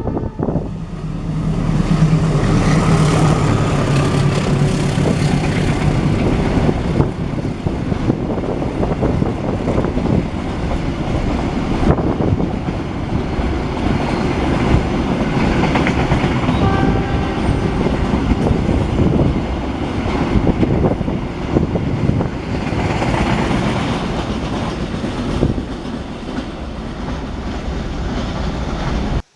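Diesel-hauled train passing through a station. A low engine note is heard in the first few seconds, then the carriages go by with a steady rumble and clatter of wheels over the rail joints. The sound cuts off suddenly at the end.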